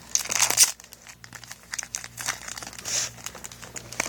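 Foil trading-card booster-pack wrapper crinkling and rustling in short bursts as it is handled, loudest about the first second.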